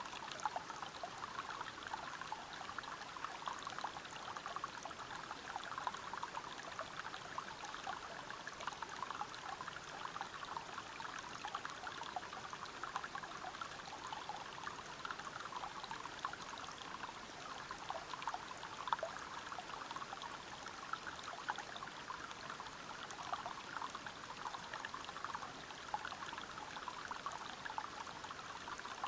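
Waterfall and river water flowing over rocks: a steady rushing and splashing, with many small splashes.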